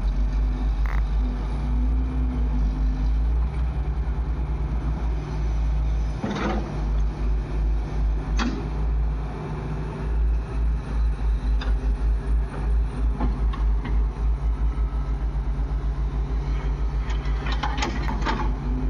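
Heavy diesel engine running with a steady low throb, with a few sharp metallic knocks and clatters over it, a cluster of them near the end.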